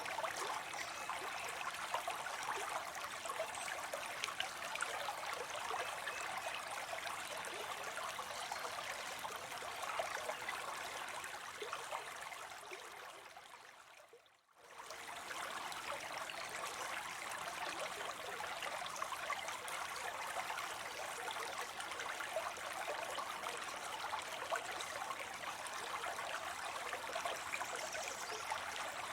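Small stream of water spilling and splashing into a pond, a steady trickling rush. About halfway through it fades out to near silence over a couple of seconds, then comes straight back.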